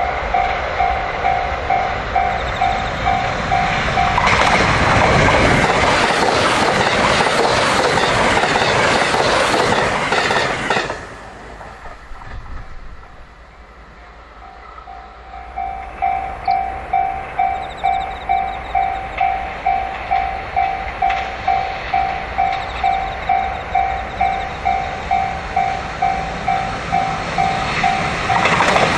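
A 681-series limited express train passes at speed with a loud rush of wheels on the rails, over a level crossing alarm ringing in steady electronic pulses about twice a second. The passing sound cuts off abruptly about a third of the way in. After a quieter stretch, the crossing alarm starts ringing again about halfway through. Near the end the next train's approach begins to swell under it.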